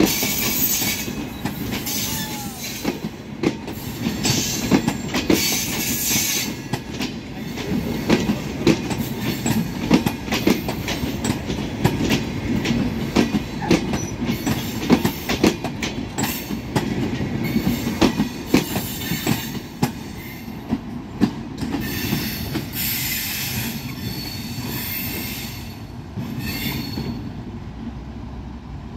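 CRRC-built intercity passenger coaches rolling past close by, their wheels clacking over the rail joints in quick irregular clicks over a steady rumble. A high hiss from the wheels comes and goes. The sound fades over the last few seconds as the end of the train moves away.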